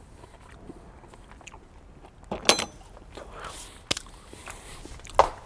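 A person chewing and tasting a mouthful of chickpea soup, with a few short sharp clicks, the loudest about two and a half seconds in.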